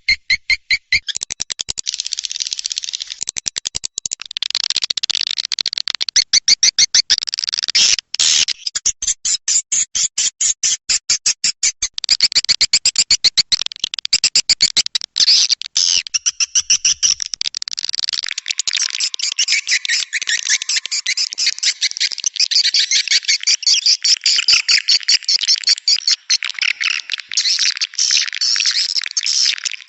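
Swiftlet calling-sound recording, the lure played in swiftlet nesting houses: a dense, continuous stream of fast chittering chirps and rapid click-like pulse trains, high-pitched and without pause.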